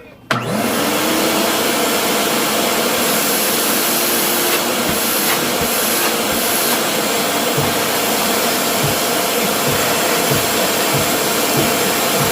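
Shop vac switched on about a third of a second in, its motor whining up to speed and then running steadily at full power.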